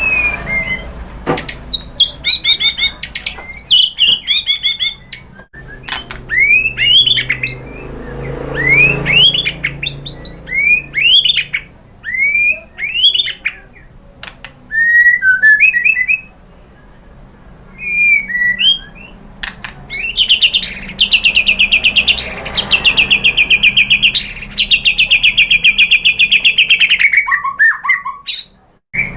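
White-rumped shama (murai batu) singing: a run of loud, clear whistled phrases of curving, sweeping notes, then, about twenty seconds in, a long rapid rattling trill held for around seven seconds.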